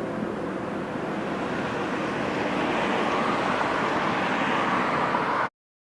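Road vehicle noise: a steady rush of tyres and engine that grows a little louder toward the end, then cuts off abruptly about five and a half seconds in.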